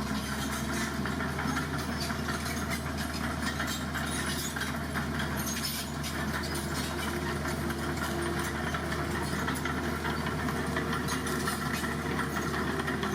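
Heavy vehicle engine running steadily, with no change in speed.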